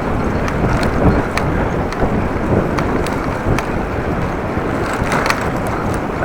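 Strong gusty wind blasting across the microphone while cycling, a dense low rumble. Scattered light ticks sound through it.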